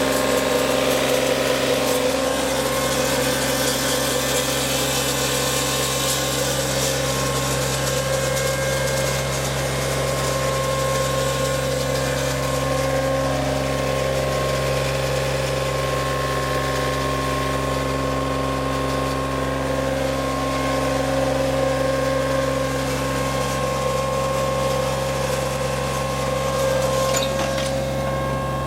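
Yanmar 3TNE84 three-cylinder diesel engine of a John Deere 3235B fairway mower running steadily at a constant speed, with a mechanical clatter over the engine note.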